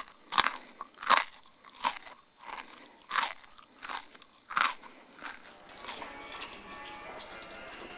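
Close-miked chewing of dry, crumbly food, with a sharp crunch of the teeth about every 0.7 s. The crunching stops about five and a half seconds in and gives way to a faint steady hum with light ticks.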